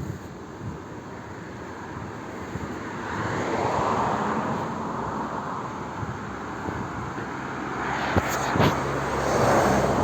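Outdoor vehicle noise, a broad rushing sound that swells twice as something passes, with a few sharp clicks near the end.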